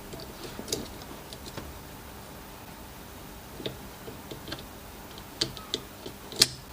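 Scattered light clicks and taps, as of small parts and tools being handled on a workbench. The sharpest knock comes near the end.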